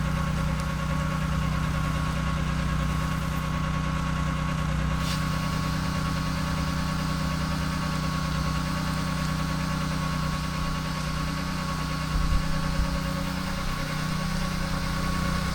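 Engine of a pressure washing rig running steadily at constant speed, with a steady hum, a thin whine and a hiss over it. A few low bumps come about twelve seconds in.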